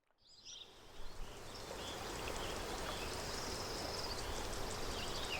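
Lakeside park ambience: scattered bird chirps over a steady wash of gentle water, fading in from silence over the first couple of seconds.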